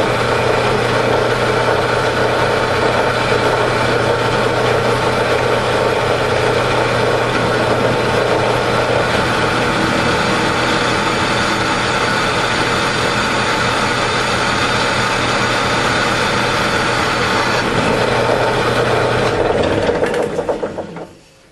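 Drill press motor running steadily, with a constant low hum, while a freshly sharpened twist drill bit cuts test holes in quarter-inch flat bar. The sound dies away near the end.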